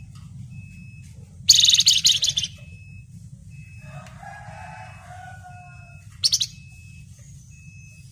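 Flamboyan songbird giving a loud, harsh, rapid chattering burst about a second and a half in that lasts about a second, and a shorter one near the end, with fainter, lower drawn-out notes between them. A steady low hum and a faint short high beep about once a second run underneath.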